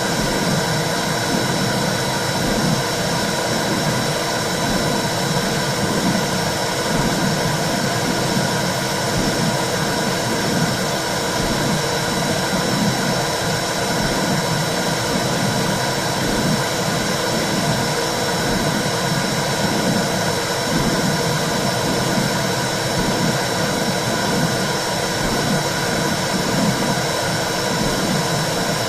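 Simulated womb sound for soothing a baby: a steady low whooshing noise with a rhythmic low pulse, like blood flow and a heartbeat heard from inside the uterus.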